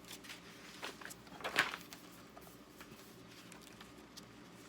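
Faint paper rustling and soft clicks of a picture-book page being turned, loudest about one and a half seconds in.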